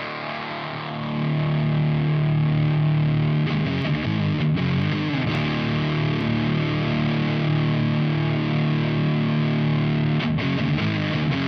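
Electric guitar played through an Ibanez Metal Charger distortion pedal: heavily distorted chords held and ringing out. It gets louder about a second in, and the chord changes around four seconds and again near the end.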